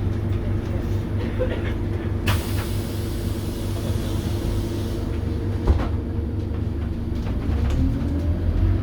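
Scania DC9 five-cylinder diesel of a city bus running steadily, with a hiss of released compressed air lasting about three seconds from just over two seconds in. Near the end a whine rises slowly in pitch.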